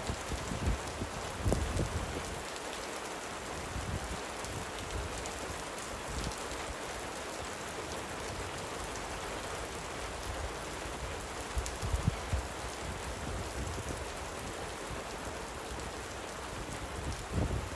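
Light rain falling, a steady even hiss of many drops, with a few short low thumps near the start, about twelve seconds in and again near the end.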